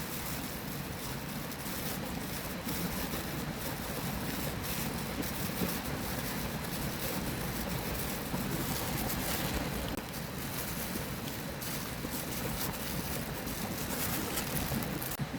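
Steady rushing of a river flowing, with scattered faint crackles over it.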